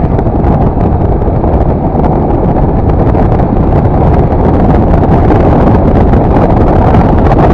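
Wind rushing over the microphone of a rider on a moving motorcycle, with road and engine noise underneath: a loud, steady, low rumble.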